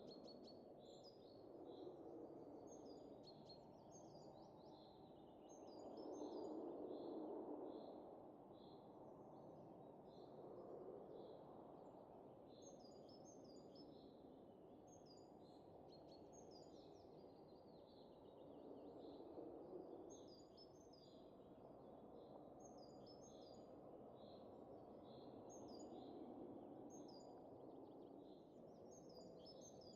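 Faint wind rushing and easing in soft gusts, swelling most strongly about six seconds in, while small birds chirp continually with quick, repeated high notes.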